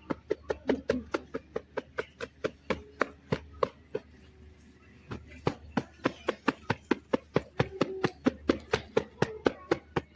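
Repeated sharp knocks, about three to four a second, of a dirty car part being beaten or tapped to shake the dust and dirt out; they pause briefly about four seconds in, then carry on.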